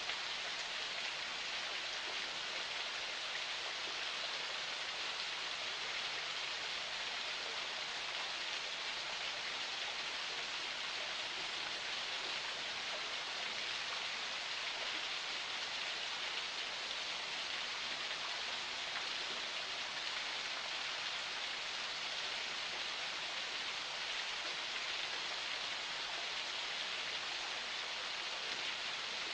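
Steady rushing of a small forest spring's water flowing, an even hiss with no separate splashes or changes.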